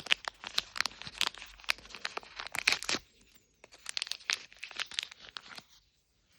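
Small plastic blind bag crinkling and tearing as it is opened by hand, in two bursts of crackling with a short pause between them.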